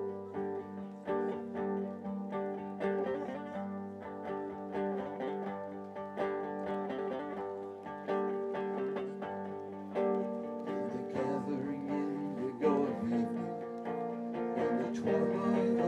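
Instrumental opening of a live song: guitar plucked over sustained held notes, the playing growing fuller about eleven seconds in.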